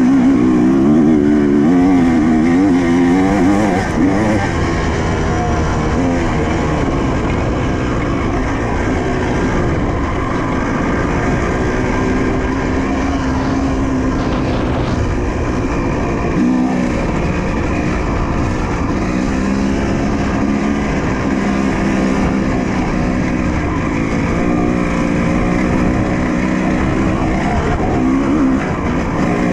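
Honda CR250 dirt bike's single-cylinder two-stroke engine under way on a trail, the pitch going up and down quickly with the throttle in the first few seconds, then running steadier with occasional rises and dips.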